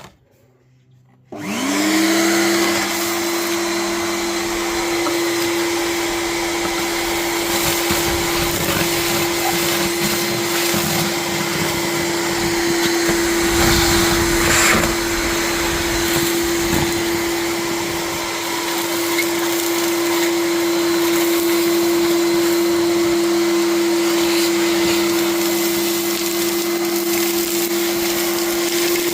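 Gutter vacuum switched on about a second and a half in: its motor spins up with a rising whine that settles into a steady tone, then runs steadily and loudly as it sucks mud and debris out of a driveway drain channel.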